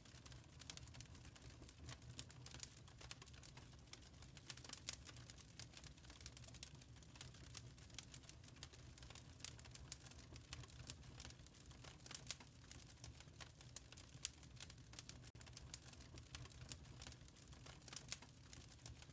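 Wood fire crackling softly: irregular small pops and ticks over a low, steady rumble.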